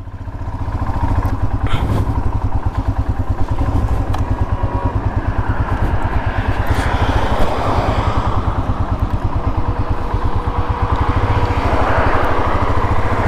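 Royal Enfield Himalayan single-cylinder motorcycle engine pulling away, getting louder over the first couple of seconds, then running steadily under way with a regular low throb. Wind and road noise build up in the second half.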